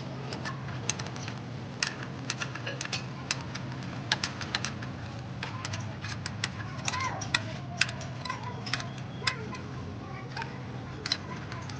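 Irregular sharp clicks and light taps, several a second and unevenly spaced, over a steady low hum.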